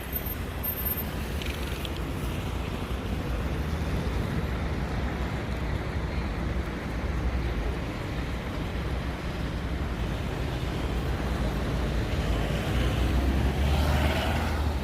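Steady low rumble of a train at a railway station, with wind buffeting the microphone, growing a little louder toward the end, where a faint squeal dips and rises.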